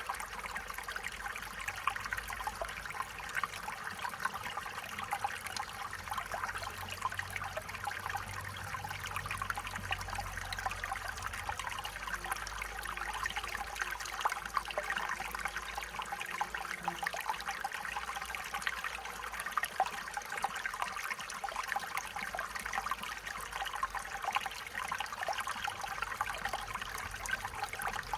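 Stream water flowing steadily over stones, a continuous trickling and splashing.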